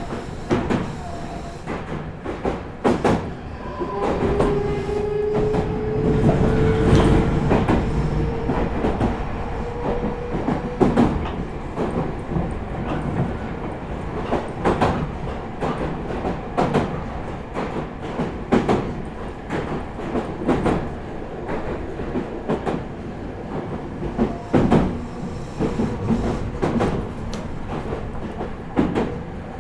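Running sound of a Meitetsu 4000 series electric train heard inside the car: a steady rumble with the wheels clacking over rail joints every second or two. For several seconds near the start, a faint tone slowly rises in pitch.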